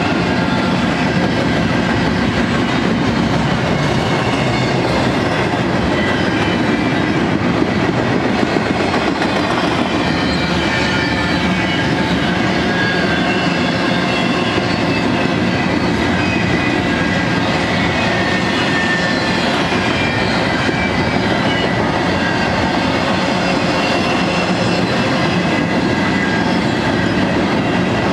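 Double-stack intermodal freight train's container-laden well cars rolling past at a steady speed: a continuous rumble and clatter of steel wheels on the rails, with faint high-pitched tones wavering above it.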